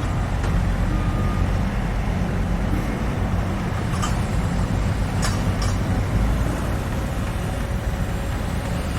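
Construction-site heavy machinery running with a steady low engine rumble, with a few short sharp knocks about four and five seconds in.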